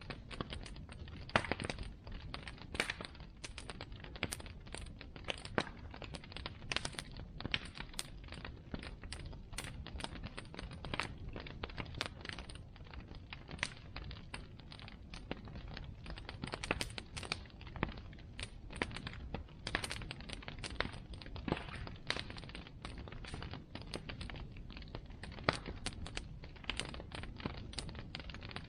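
Bonfire burning, with irregular sharp crackles and pops several times a second over a low, steady rush of flame.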